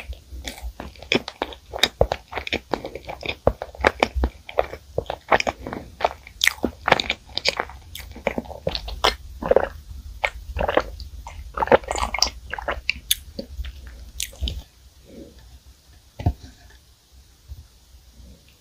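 Close-miked chewing of bread and flaky pastry: dense, irregular crackly mouth clicks and small crunches. There is a drink of milk from a glass midway, and the chewing thins out over the last few seconds.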